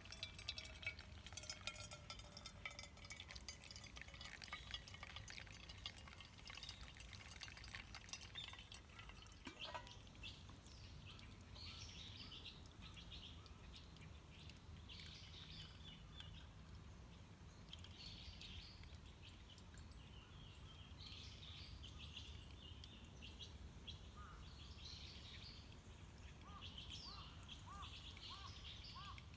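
Faint wild birdsong: repeated chirps and short calls, thickening through the second half, with a run of quick looping notes near the end. Over the first ten seconds a dense patter of faint crackling clicks sits under the birds.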